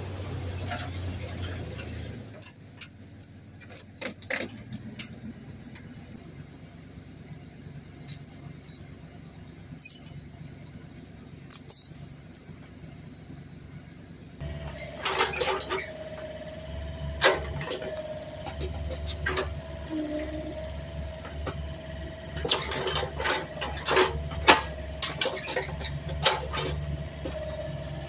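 Homemade Doodlebug skidder's engine running low, with a scatter of sharp metal clinks and knocks. About halfway through, a steady whine joins in.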